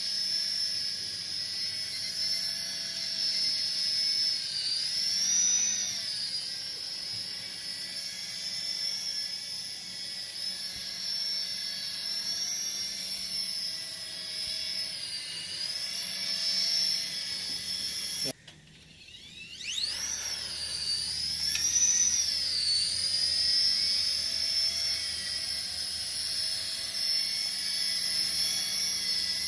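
Small electric rotor motors of a DeeRC SQN040 toy RC helicopter whining in flight, the pitch rising and falling as the throttle changes. About two-thirds of the way through the whine drops out briefly, then winds back up.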